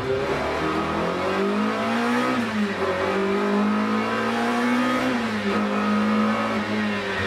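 BMW M3 Group A race car's four-cylinder engine under hard acceleration, heard from inside the cabin. The revs climb, dip sharply at a gear change about two and a half seconds in, climb again, then fall back about five seconds in as the car slows.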